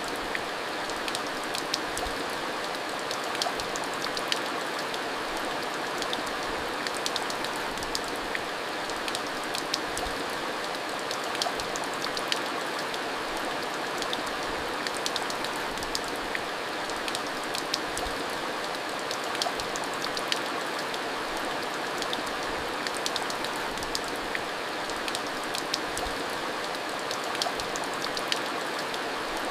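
Steady rain falling, with a constant hiss and many scattered sharp drop ticks as it hits a surface.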